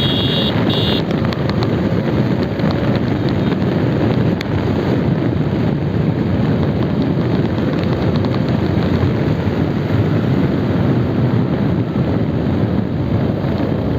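Strong wind buffeting on the microphone while riding a motorcycle at speed, with engine and road noise beneath it. Two short high beeps in the first second.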